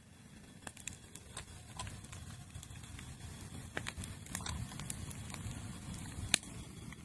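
Wood bonfire burning with a steady low rush, the wood crackling with scattered sharp pops; one louder pop about six seconds in.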